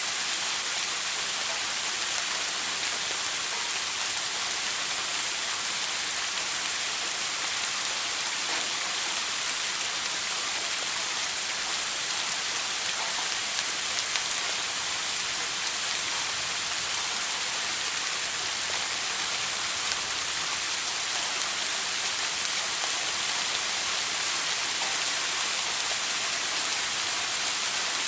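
Shower water spraying steadily and splashing onto a hard surface, an even hiss with faint drop ticks.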